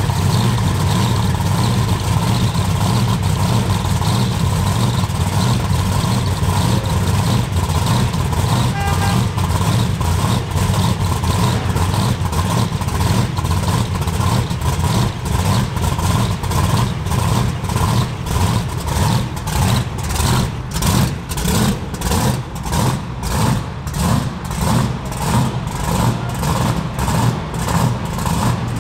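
8-71 Roots-supercharged, E85-fuelled V8 of a first-generation Camaro drag car running. It is fairly even at first, then settles into a lumpy, cammed idle with blower surge, pulsing about twice a second and growing more pronounced toward the end.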